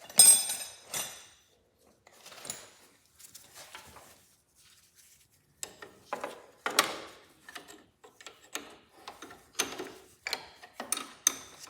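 Hand wrenches working a nut: a sharp metal clink of tools about a quarter second in, then a run of short ratcheting strokes, each under a quarter second, about one every half second to a second in the second half.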